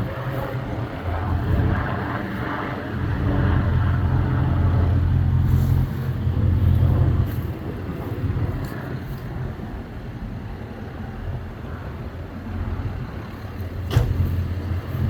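Ford F-250 Super Duty pickup's engine running with a steady low drone that grows louder for a few seconds and then eases off. A sharp click comes near the end.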